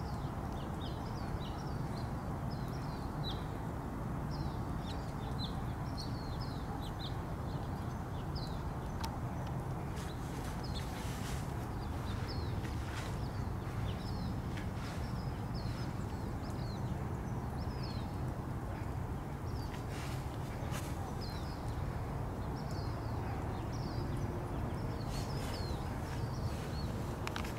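A small bird chirping over and over, about one or two short high calls a second, over a steady low rumble.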